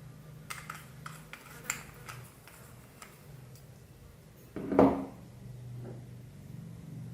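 Light clicks and taps of small hard objects being handled, about a dozen over the first few seconds, then one louder knock with a brief ring about five seconds in.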